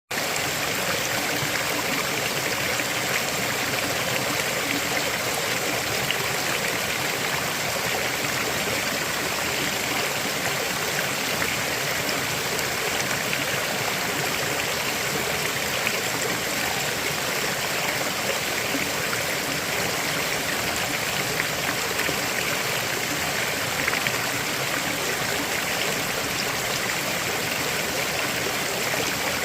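River water flowing over rocks, a steady rushing and splashing.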